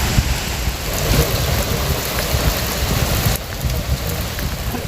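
Heavy rain falling steadily, with a low rumble beneath the hiss. A little over three seconds in, the rain's hiss turns duller.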